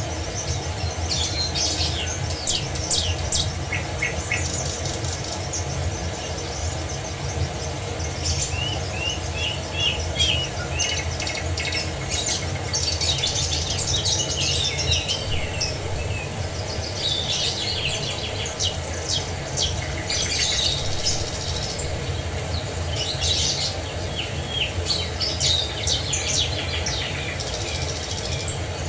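A chorus of small birds chirping and trilling in quick, overlapping calls, over a steady low rush of falling water.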